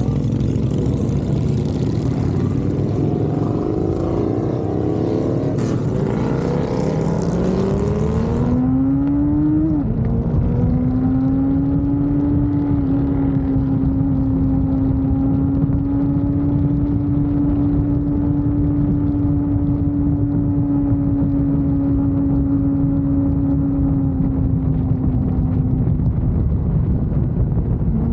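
Motorcycle engine pulling up through rising revs for about ten seconds, then holding a steady pitch while cruising, over a constant low rush of road and wind noise.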